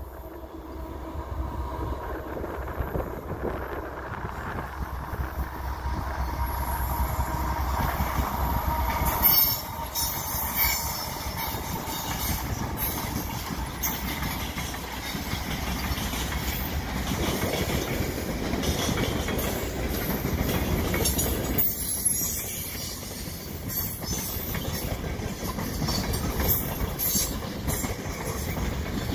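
Canadian Pacific freight train passing: GE diesel locomotives rumbling, growing louder over the first several seconds. After a sharp clack about nine seconds in, the freight and tank cars roll by with wheels clicking over the rail joints.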